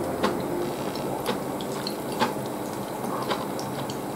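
Wet chewing of a mouthful of ramen noodles, with sharp mouth clicks about once a second over a steady background hiss.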